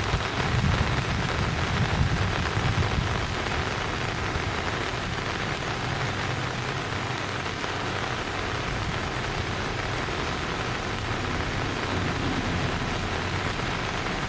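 Steady rushing hiss of water, like falling rain, with a low rumble that eases over the first three seconds.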